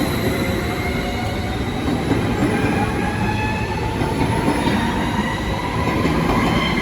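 Electric train running slowly: a steady rumble with several thin, high whining tones that slowly slide in pitch.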